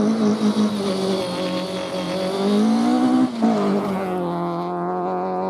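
Rally car engine pulling hard on a forest stage, its pitch climbing, then a brief break about three seconds in, typical of a gear change, after which it pulls on at a steadier pitch.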